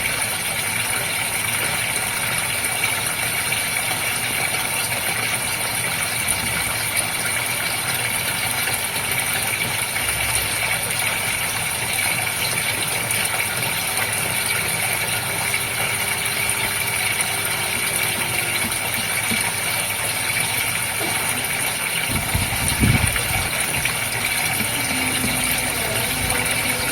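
Goldfish aquarium water running steadily, with the constant hum of a pump. A few low thumps come in near the end.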